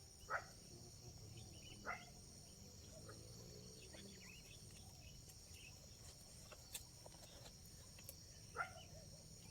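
Faint, steady high-pitched chirring of crickets, with a few short sharp chirps about half a second, two seconds and eight and a half seconds in.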